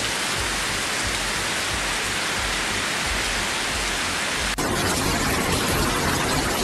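Steady hiss of heavy rain and rushing floodwater. About two-thirds of the way through it cuts abruptly to a slightly different, equally steady rushing noise.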